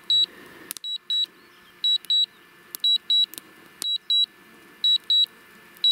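Quadcopter remote controller beeping: short high double beeps, about one pair a second. This is the alarm for low battery while the drone flies itself home.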